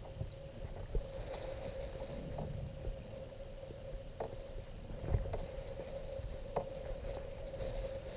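Kayak under way on the water: a steady mid-pitched hum over a low rumble, with scattered light knocks and splashes against the hull.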